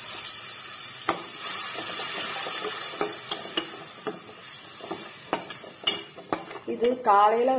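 Mint paste frying in hot oil in a stainless steel pot, a steady sizzle that fades after three or four seconds, while a metal spoon stirs it and clicks and scrapes against the pot, more often in the second half. A voice starts speaking near the end.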